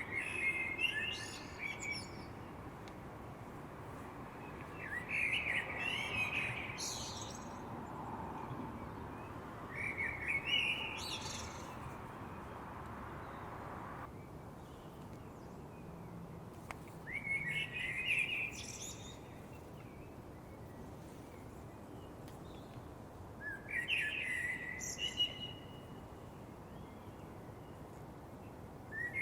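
A songbird singing in the dark before dawn: short, varied warbling phrases of a second or two each, about five of them with pauses of several seconds between, over a steady background hiss.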